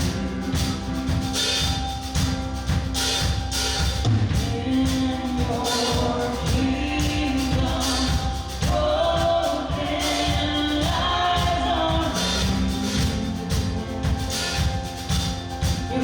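Worship music with singing over a steady drum beat.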